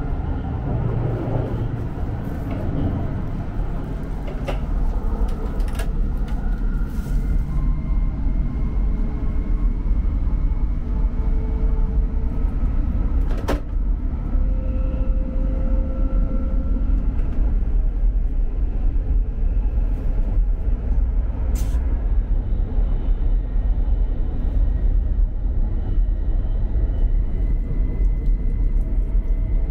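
E5 Series Shinkansen running at speed: a steady low rumble that grows louder over the first ten seconds or so, with a few faint brief tones and a couple of sharp clicks.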